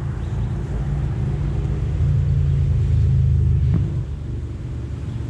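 Honeybees buzzing around an open hive: a steady low drone that swells for a couple of seconds midway, with a single bee whining past close by near the end of the swell.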